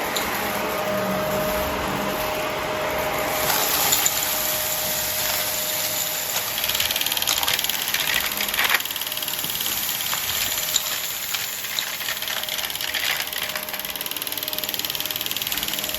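Vacuum cleaner running steadily. A few seconds in, its sound turns brighter and more hissy, and scattered small clicks of debris follow.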